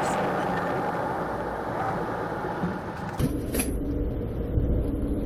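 Vehicle engine and road noise from a high-speed police pursuit. About three seconds in it changes abruptly to a deeper rumble with a few knocks.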